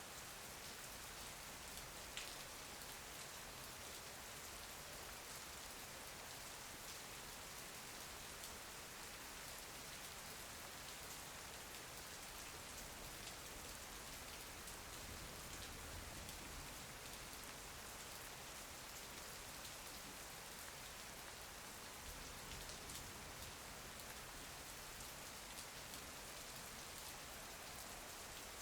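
Steady rain falling: an even, soft hiss with now and then a sharper single drop, the clearest about two seconds in.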